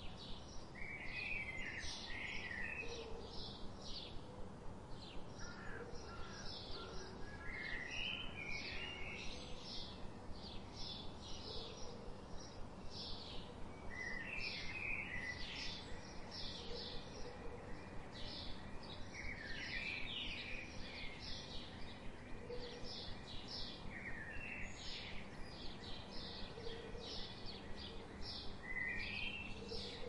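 Birds chirping: a fast, even run of short high chirps, about three a second, with a short warbling phrase breaking in every four to six seconds.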